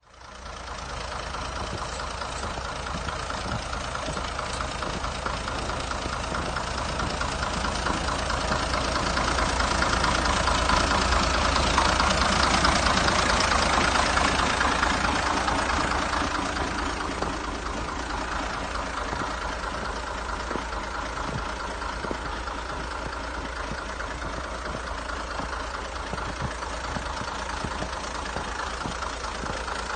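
Zetor 12245 turbo tractor's turbocharged diesel engine running steadily. It grows louder for several seconds in the middle, then settles back to its earlier level.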